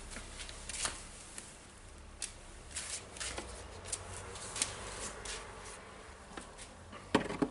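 Hands handling and fitting parts of a work-site radio's housing: scattered light clicks and taps, with a few louder knocks near the end.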